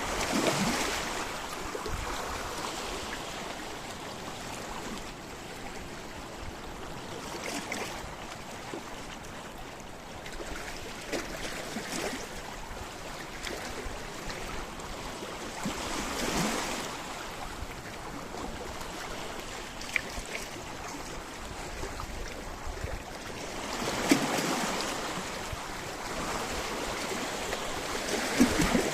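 Sea waves washing onto a rocky shore: a steady wash of surf rising into a louder surge every several seconds, with a few sharp splashes or knocks.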